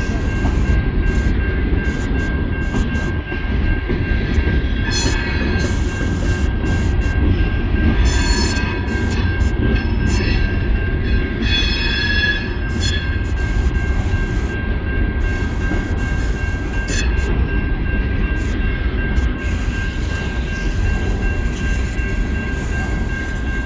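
Norfolk Southern coal train rolling past with a steady heavy rumble. High-pitched steel wheel squeal rises several times, loudest about five, eight and twelve seconds in.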